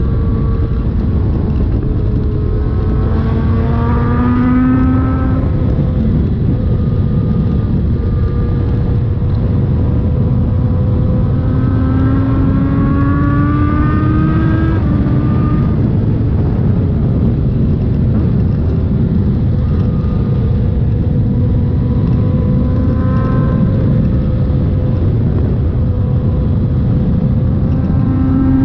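Suzuki GSX-R1000 inline-four engine through an SC Project exhaust with the catalytic converter removed, rising in pitch several times as it accelerates, over a constant loud rumbling noise.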